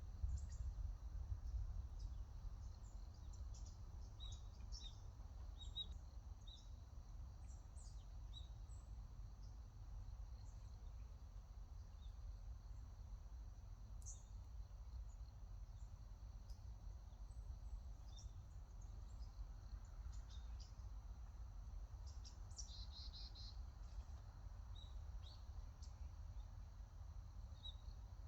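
Songbirds chirping faintly, with short high calls scattered throughout and a quick trill about three-quarters of the way through, over a steady low rumble.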